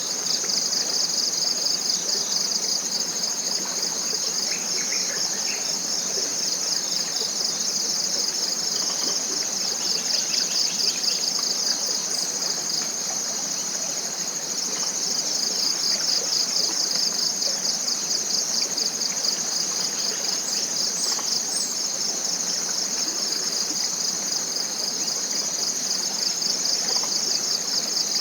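A chorus of forest insects keeps up one continuous, high, rapidly pulsing trill, with a few faint bird chirps and calls now and then.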